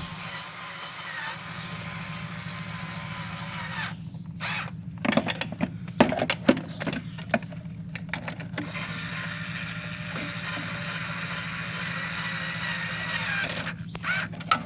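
Cordless drill with a 10mm deep socket driving in the throttle body's mounting bolts. It runs steadily for about four seconds, then comes a few seconds of clicks and knocks as parts are handled, then it runs again for about five seconds.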